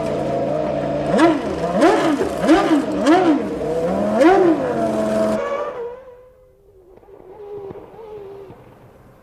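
A 1996 Formula One car's engine at high revs, its pitch rising and falling five times. It cuts off abruptly about five seconds in, leaving a fainter race car engine.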